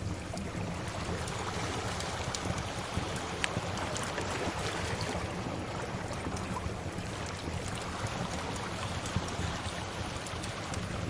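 Steady wash of sea waves with a wood fire crackling over it, giving sharp pops every second or so.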